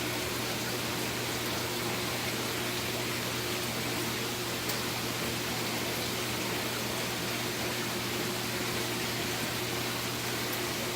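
Steady hiss with a low hum from running saltwater-aquarium equipment such as pumps and water circulation.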